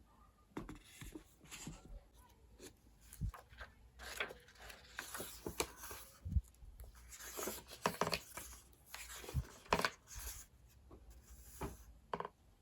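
Handling of paper and pens on a desk for a bullet journal: irregular rubbing and rustling of paper, pen strokes and small knocks and clicks.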